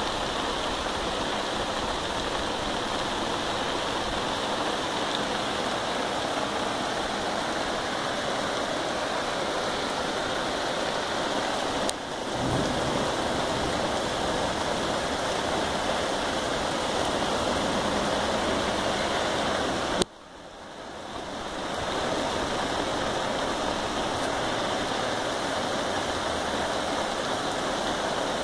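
Heavy rain falling steadily, a dense even hiss. A click about twelve seconds in, and another about twenty seconds in, after which the rain sound drops out suddenly and fades back in over a couple of seconds.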